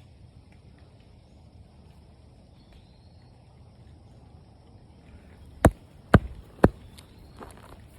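Three sharp thumps about half a second apart, a foot pounding the ground over a mole run to trap the digging mole, followed by a few fainter knocks.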